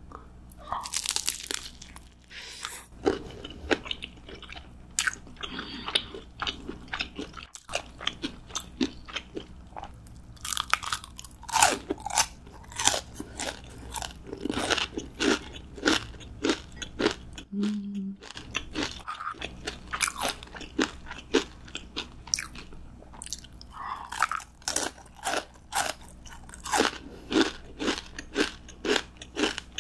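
Close-miked eating: bites and chewing of crunchy food, a run of crisp crunches several times a second broken by short pauses.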